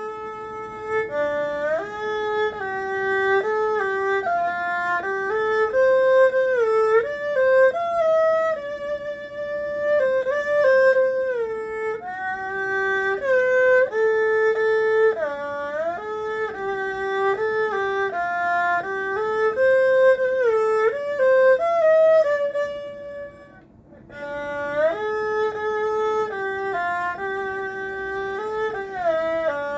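Erhu playing a slow melody with frequent sliding notes between pitches. It breaks off briefly about three-quarters of the way through, then resumes.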